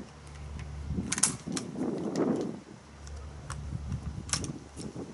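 A few sharp mechanical clicks and clacks from handling a CO2 air pistol between shots, with a steady low wind rumble on the microphone.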